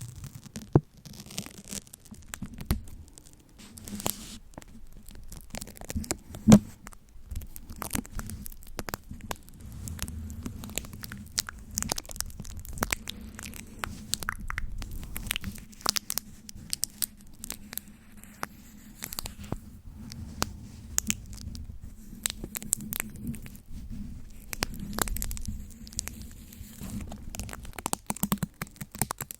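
Close-miked ASMR trigger sounds: a dense, irregular run of sharp clicks and scratchy crackles, with a low steady hum beneath.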